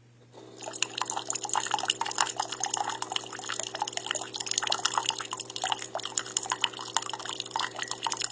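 Single-serve K-Cup pod coffee maker brewing: a steady pump hum with water sputtering and dripping into the cup in irregular spurts as it is forced through the coffee pod. It starts about half a second in and cuts off suddenly near the end.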